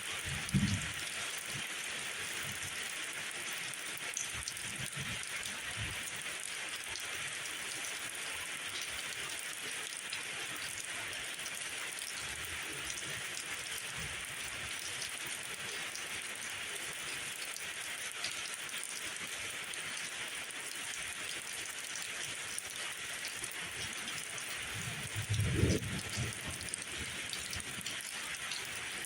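Steady rain falling, an even hiss. A brief low rumble comes near the start and again near the end.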